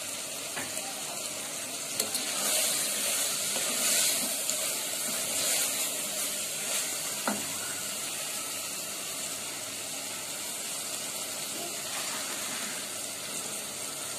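Mutton masala with onion and tomato sizzling and frying in an aluminium pressure cooker pot while a wooden spoon stirs it. The sizzling and stirring are loudest from about two to seven seconds in, with a sharp knock of the spoon about two seconds in.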